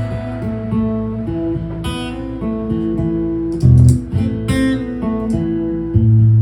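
Acoustic guitar strummed in a steady chord pattern with strong low bass notes, playing a song's instrumental intro before the vocals come in.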